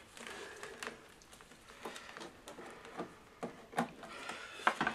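Scattered light clicks and knocks of hardware being handled as a hard drive and its leads are fitted into place, several in the second half.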